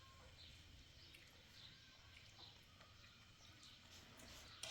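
Faint chirping of a small bird, short falling chirps repeated about every half second, over a low background rumble.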